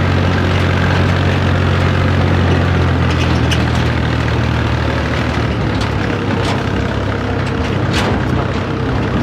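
Tractor engine running steadily under a low hum, easing slightly partway through, with a few sharp knocks and clatters over it.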